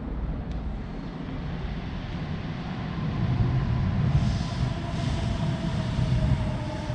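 Electric passenger train running in the station, a low rumble that grows about halfway through, with a faint whine that slowly falls in pitch as it slows.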